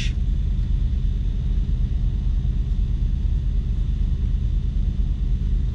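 Vehicle engine idling steadily: a constant low rumble.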